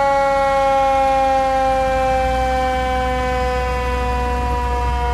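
A siren sounding one long held tone that falls slowly and steadily in pitch and fades a little, over a low steady rumble.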